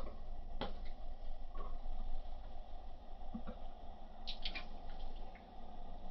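Close-up eating sounds from chewing and handling a sandwich: scattered small clicks and wet mouth noises, with a quick cluster of clicks past the middle, over a steady low hum.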